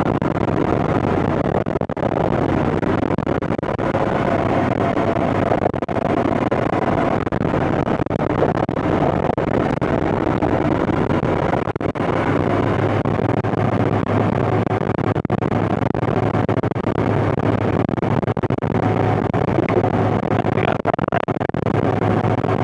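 John Deere 8970 tractor's six-cylinder Cummins diesel running steadily under load while pulling a tillage implement. Its low note gets stronger about halfway through.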